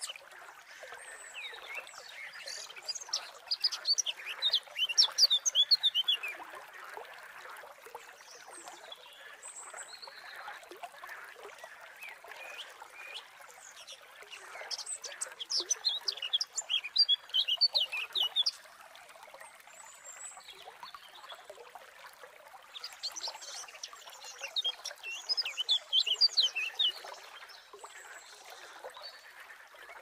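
A songbird sings three bursts of rapid, high twittering song, each about three seconds long, a few seconds in, in the middle and again toward the end, over a steady background hiss.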